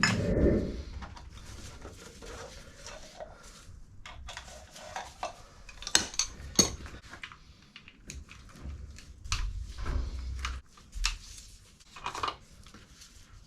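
Hand tools and small metal engine parts clinking and clattering as they are handled, in irregular scattered clicks with a few dull knocks.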